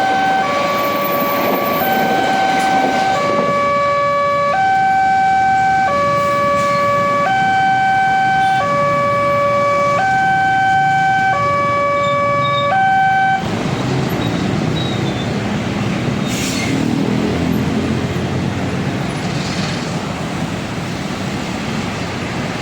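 Railway level-crossing warning alarm sounding a slow two-tone signal, one pitch then a slightly higher one, each held about a second and a quarter. It cuts off suddenly about 13 seconds in, leaving a low rumbling noise.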